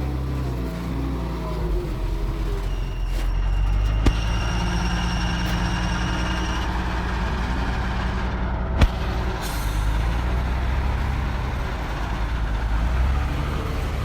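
Heavy diesel engine running steadily, with a high, steady whine for about four seconds from about three seconds in. There are two sharp knocks, one about four seconds in and one about nine seconds in.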